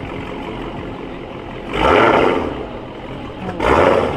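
A car engine revved in two short blips about two seconds apart, over the steady rumble of idling cars.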